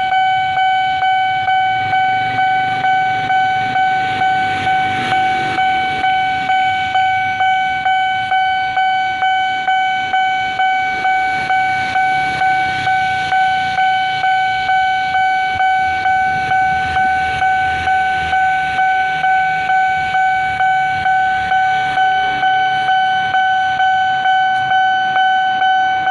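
Level-crossing warning bell ringing steadily, a single pitched tone struck about three times every two seconds. Underneath it a train rumbles across the crossing with faint clicks of wheels over the rails.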